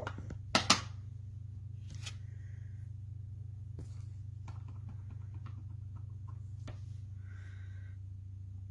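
A few light clicks and taps from handling a rubber stamp and ink pad, the sharpest a quick pair just under a second in, over a steady low hum.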